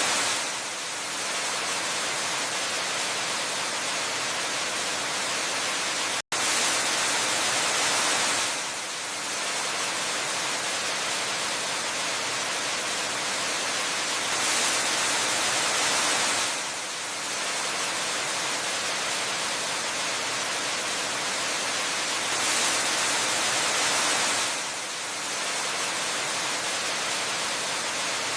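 Waterfall ambience: a steady rushing hiss of falling water that grows brighter every eight seconds or so, and cuts out for an instant about six seconds in.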